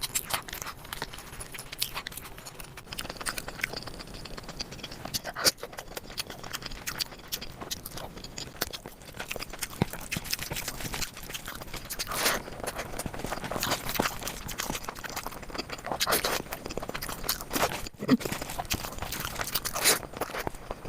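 Close-miked eating of curry: irregular wet chewing, lip smacking and short crunches.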